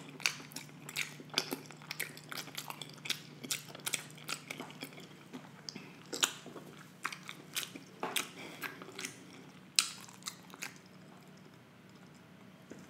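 Close-miked chewing of soft deshelled lobster, crab and prawn meat: wet mouth clicks and smacks at an irregular pace, thinning out over the last few seconds.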